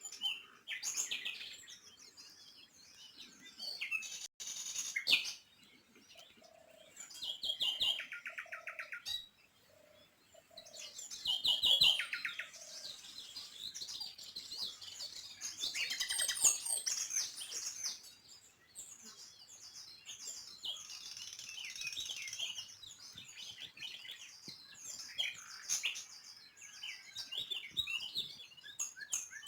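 Several small songbirds chirping and twittering, with quick trills about 8 and 12 seconds in and a run of lower repeated notes around 7 to 10 seconds in.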